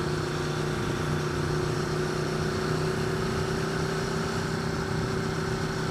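Aprilia Tuono V4 1100RR's V4 engine running at steady revs while riding, with wind and road noise.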